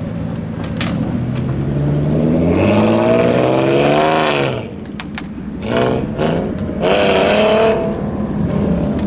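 Car engine revved hard: a long rising rev that peaks about four seconds in and cuts off, a couple of quick blips, then a second shorter rev, over a steady idle.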